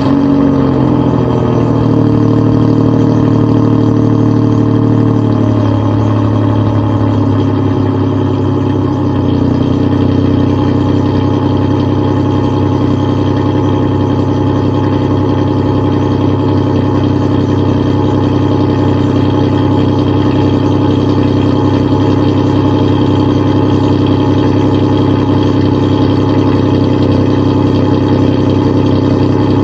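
Engine just after a cold start, running at a raised idle that drops about five seconds in and settles into a steady idle. It has an exhaust leak.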